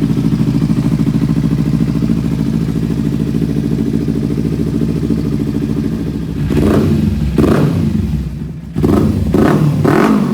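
Kawasaki Ninja 300's parallel-twin engine through an aftermarket Delkevic exhaust, idling steadily just after a cold start. About six seconds in, the throttle is blipped several times in quick succession, each rev rising and falling back.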